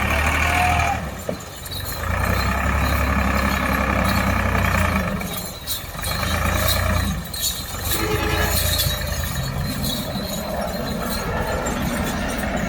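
Massey Ferguson 260 tractor's diesel engine running, its deep hum dropping away briefly and returning a few times.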